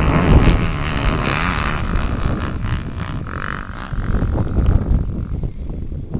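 Small off-road race engine running and revving, its pitch rising and falling, with rough noise around it.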